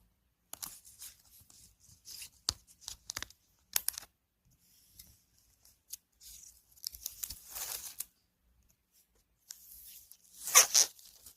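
Photocard packing: plastic sleeves and packing material handled with light taps and crinkles, then a louder strip of tape torn near the end.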